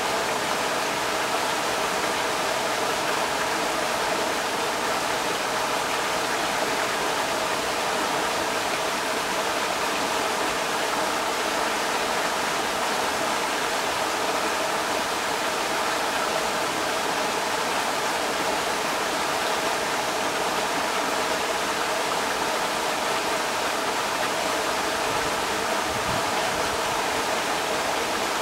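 Creek water rushing steadily over rocks, a continuous even rush of noise.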